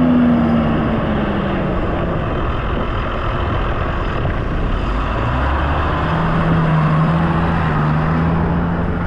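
Tractor engine running under load with the baler working, heard from inside the cab. The engine note sags over the first couple of seconds and holds steady again from about halfway through.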